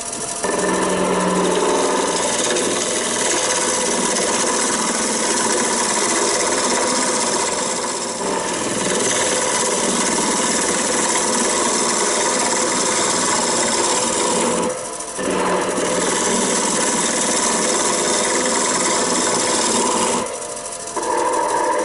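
A roughing gouge cutting a spinning Irish elm blank on a wood lathe, a steady rough shearing noise. Twice, about fifteen and twenty seconds in, the cut breaks off briefly and only the lathe's hum remains. The blank is still slightly out of round, and this can still be heard in the cut.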